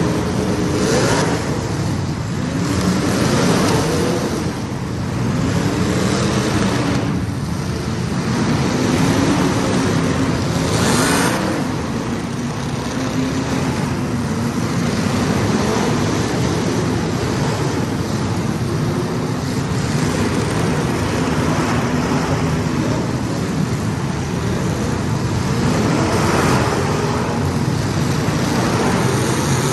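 A field of small race cars running laps, their engines rising and falling in pitch as they rev and lift through the turns. A louder swell comes each time cars pass close, about a second in, at about 7 and 11 seconds, and near the end.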